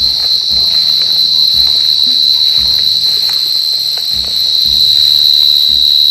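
A cricket singing a loud, continuous trill at one steady high pitch, without a break.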